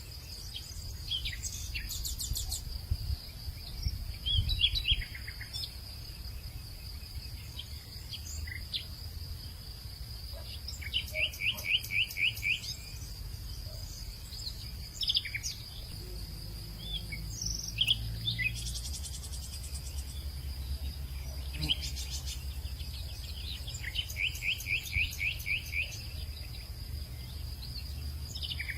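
Outdoor ambience of birds calling and insects: a steady high insect drone throughout, scattered short bird chirps, and twice a quick run of about ten repeated bird notes. A low wind rumble sits underneath.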